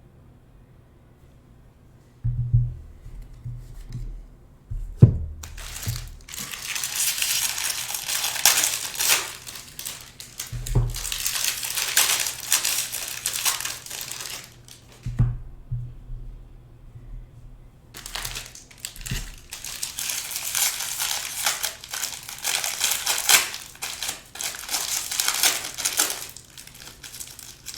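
Foil trading card pack wrappers crinkling and crackling as packs are torn open and handled, in two long stretches, with a few dull thumps of handling on the table.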